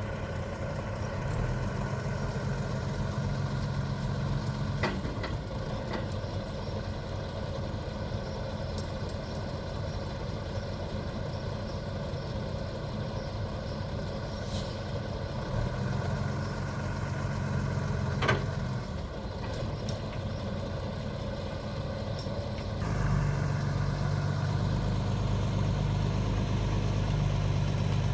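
Heavy engine idling steadily with a low drone, picking up and running louder near the end. Two sharp metallic clanks, about five seconds in and again later.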